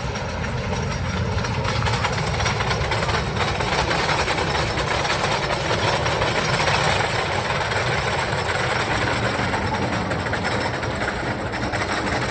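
Thunder Run's train running over its wooden roller-coaster track, the noise building to its loudest about halfway through and easing off slightly after.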